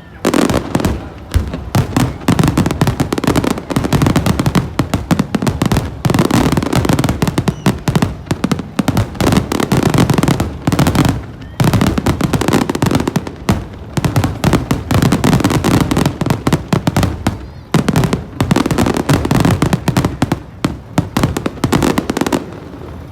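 Fireworks going off in a dense, continuous barrage of rapid bangs and crackles over a low rumble, with the noise easing for a moment several times before picking up again.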